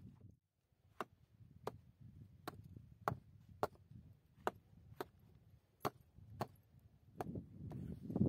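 About ten evenly spaced chopping strikes, roughly three every two seconds, each a sharp knock.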